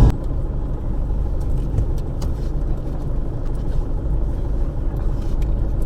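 Car driving, heard from inside the cabin: a steady low rumble of engine and road noise with a few faint clicks.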